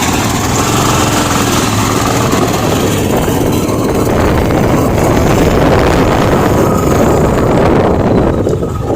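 Motorcycle engine running steadily with a dense, rough rumble throughout.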